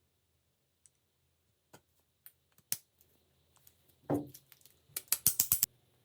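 Scattered sharp clicks and knocks, one louder knock about four seconds in, then a quick run of about seven clicks near the end.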